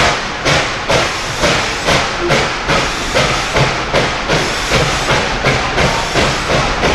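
Steam locomotive exhaust chuffing in an even beat of about three strokes a second, with a steady hiss of steam between the strokes.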